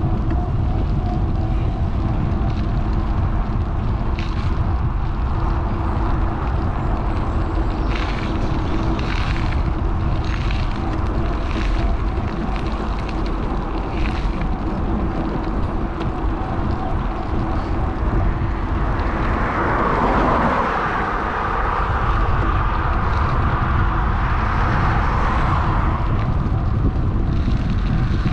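Wind rushing over the microphone of an action camera on a moving bike, with road traffic going by. About two-thirds through, a passing vehicle gets louder and drops in pitch as it goes past.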